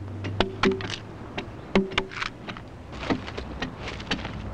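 Axes chopping into the side of a rough-hewn oak log, with sharp, irregular blows from more than one axe, several a second, some with a brief ringing.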